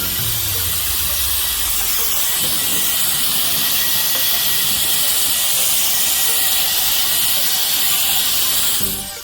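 High-speed electric air duster blowing: a steady rush of air with a thin, steady whine, cutting off near the end.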